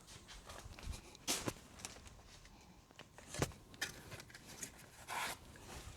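Light clicks and taps of the opened Uhlmann fencing reel's parts being handled and turned over, with a short scrape about five seconds in.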